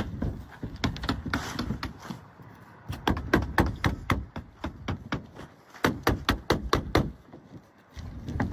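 Nails being driven through asphalt roofing shingles: sharp knocks in quick runs of several a second, mostly from about three to seven seconds in.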